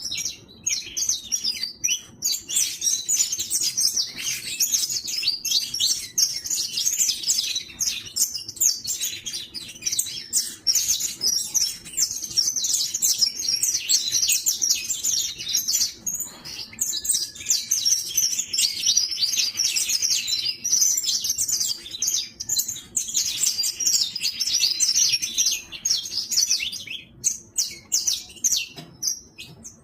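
Young saffron finch (canário-da-terra) chirping and twittering in rapid, almost continuous high-pitched series, with a few short lulls.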